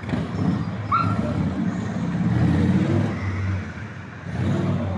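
A motor vehicle's engine running, its low sound swelling and easing, with a short high chirp about a second in.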